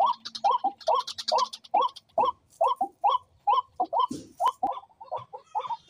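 Birds calling: short, hooked calls repeated about three times a second, with higher chirping in the first second and a half and a brief thump about four seconds in.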